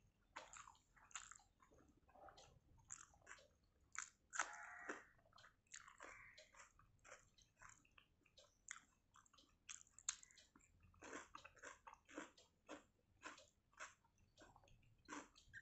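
Faint, close-up chewing of water-soaked rice and fried snacks eaten by hand: a scattered run of wet mouth clicks and lip smacks.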